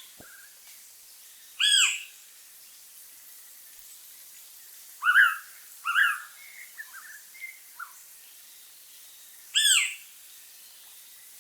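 Blue-winged pitta calling: four loud, clear whistled notes, one about two seconds in, two close together past the middle and one near the end, with a few fainter short notes between.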